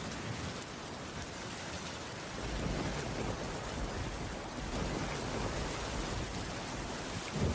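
Steady rainfall on a wooden cabin roof, an even hiss of many drops. A low rumble swells underneath from about two seconds in.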